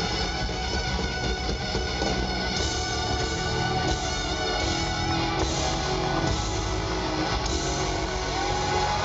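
Live rock band playing an instrumental stretch with electric guitar, bass and drums. Near the end the guitar bends its notes upward.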